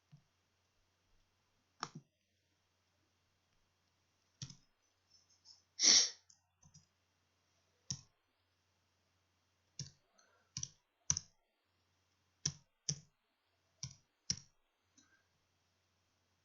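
Computer mouse clicking: about a dozen single sharp clicks at irregular intervals, with one longer, louder click about six seconds in.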